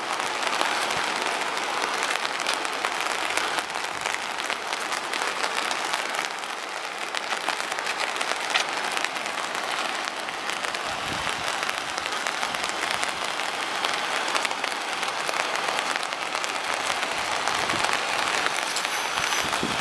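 Steady rain, an even hiss with fine crackling patter.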